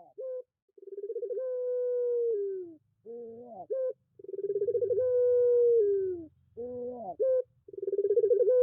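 Puter pelung dove cooing: about three long calls, each opening with a quick stutter and settling into a held note that falls away at the end, with short rising coos between them.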